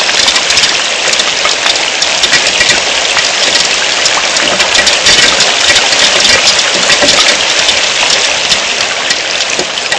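Heavy rain falling steadily: a loud, dense hiss of countless drops striking.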